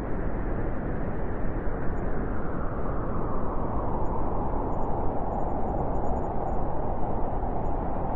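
Blizzard wind blowing hard and steadily, a dense rushing noise that grows a little brighter after about four seconds.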